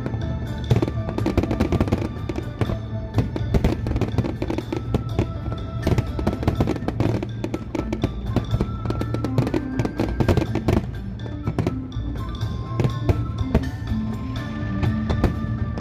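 Fireworks going off in rapid, overlapping bangs and crackles over loud music with a steady bass line.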